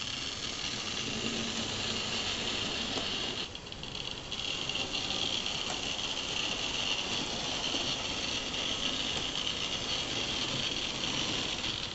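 Model railway tank locomotive with a can-type motor running along the track, a steady whirring rattle. It dips briefly about three and a half seconds in, then carries on.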